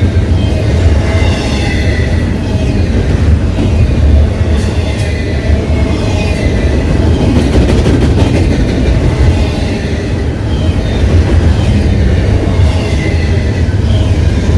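CPKC freight train's cars rolling past, a loud steady rumble and clatter of wheels on rail with a faint high squeal from the wheels.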